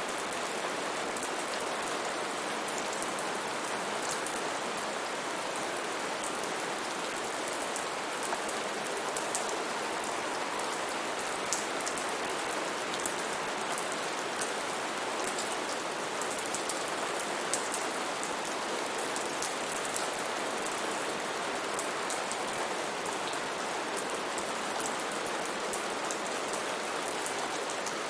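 Steady heavy rain falling on leaves and surfaces, an even hiss with many sharp individual drop ticks.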